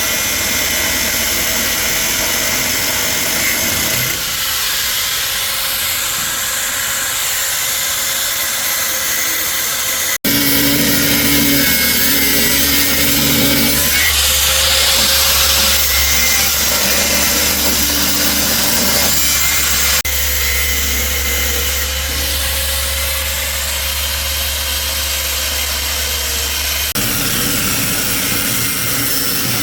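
A handheld power tool running steadily, with the sound changing abruptly several times as the clips change, including a sharp break about ten seconds in.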